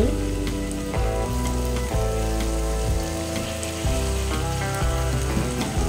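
Ground beef sizzling in a hot frying pan as mixed carrots, green beans, peas and corn are tipped in. Background music plays with held chords that change about once a second.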